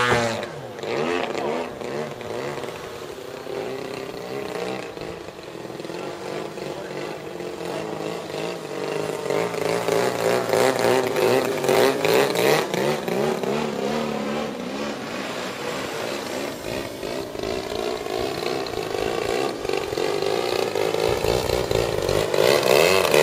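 Radio-control Edge 540 aerobatic plane's 120cc two-stroke petrol engine in flight, its pitch gliding up and down as the plane manoeuvres and passes. It is quieter a few seconds in and grows louder toward the end.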